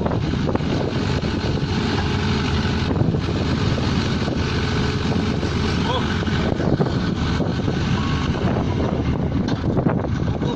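Pneumatic drilling rig running: a steady, loud machine din with a low engine hum under a dense, continuous rattle of knocks.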